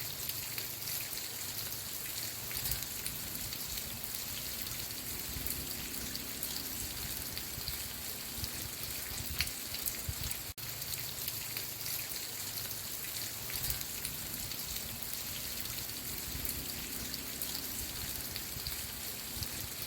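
Steady rain falling on a surface, an even hiss with scattered individual drops ticking through it. The sound drops out for a split second about ten seconds in.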